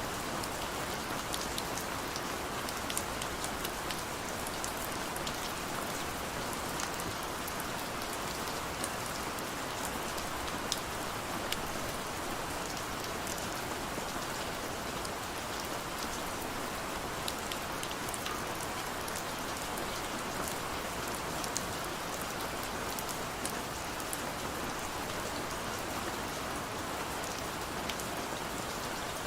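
Heavy rain falling steadily, a dense even hiss with many sharp ticks of single drops striking scattered through it.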